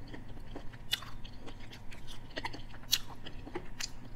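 A person chewing a mouthful of food, with irregular small clicks and crunches of the bite.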